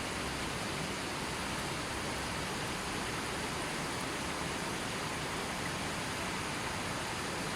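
River water flowing over rocks: a steady, even rushing with no birds or other sounds.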